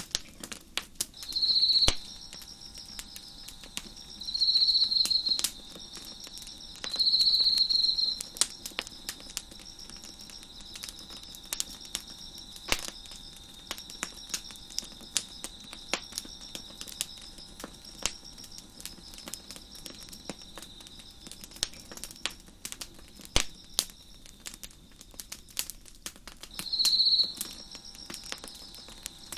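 Crickets chirping over a crackling wood fire: four loud bouts of high, rapid chirping, three in the first eight seconds and one near the end, over a fainter steady cricket trill, while the fire gives off irregular sharp pops and crackles throughout.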